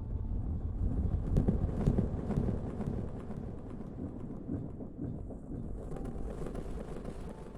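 Close-miked rustling and rubbing: a dense crackling friction noise with many small clicks, louder in the first few seconds and then easing a little.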